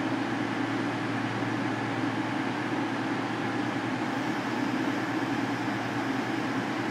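Class 222 Meridian diesel multiple unit's underfloor diesel engines running steadily, a constant low hum with no change in pitch.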